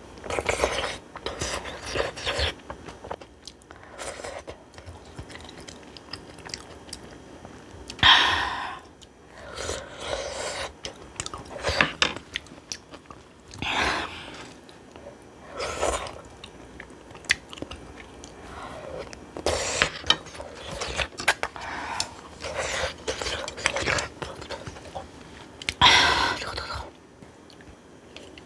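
Close-miked chewing and crunching of mouthfuls of food, a run of wet crunches with louder bursts every few seconds and small clicks between.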